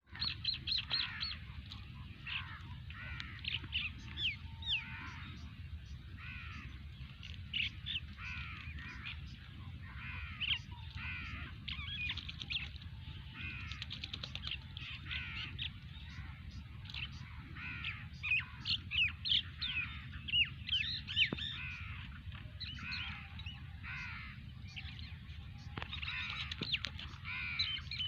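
Birds calling and chattering in quick, overlapping short calls throughout, over a steady low rumble.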